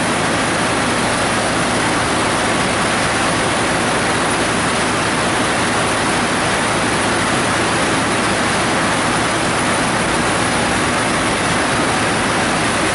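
Whipple-supercharged 4.6 L three-valve Ford V8 running at a steady speed, its belt-driven blower turning, with a loud, even rushing noise over the engine note and no revving.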